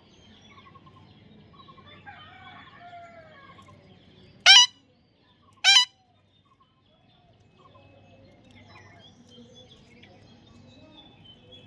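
A parrot squawking twice: two loud, short calls about a second apart, over faint chirping of other birds.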